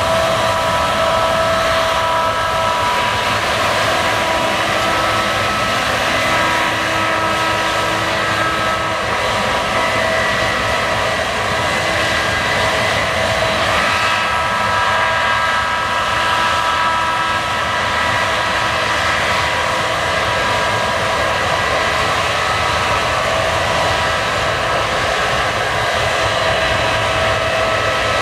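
Case combine harvester running steadily while harvesting barley: a constant mechanical din with several steady whining tones over it.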